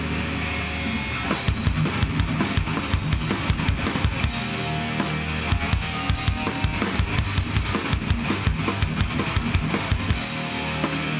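Live heavy band playing an instrumental passage with no vocals, the drum kit to the fore: rapid, steady bass-drum beats with snare over the full band.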